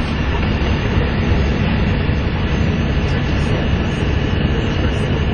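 Volvo B7TL double-decker bus's six-cylinder diesel and turbocharger heard from on board, running hard and steady with a faint high whine, the turbo 'hoover', over the engine drone and road noise.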